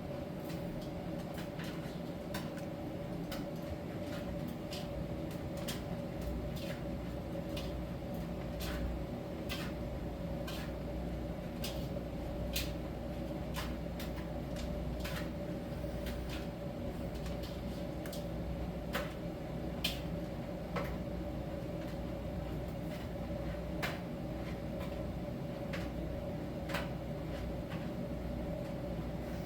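Miele T1 heat-pump tumble dryer running in its drying phase: a steady machine hum with a clear tone, and irregular light clicks and taps, a few every couple of seconds, from the load tumbling in the drum.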